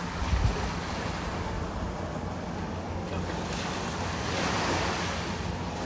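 Ocean surf washing onto the beach, with wind rumbling on the microphone; the rush of a wave swells about four seconds in.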